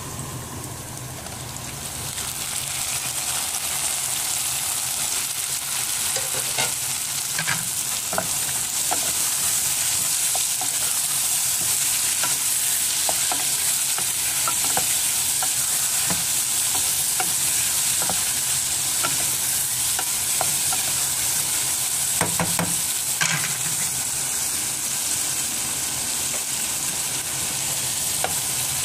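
Tomatoes and onions sizzling in hot oil in a pot, the sizzle growing louder over the first few seconds and then holding steady. Scattered clicks of a wooden spoon stirring against the pot run through it.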